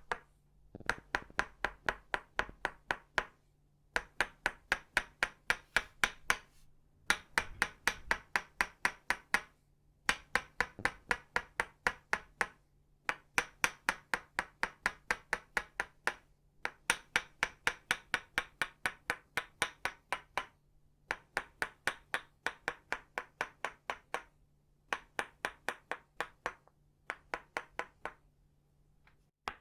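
Itauba-wood Tok Sen mallet tapping a wooden peg in quick runs of knocks, about five a second, each knock with a short ringing tone. Each run lasts two to three seconds, with brief pauses between runs.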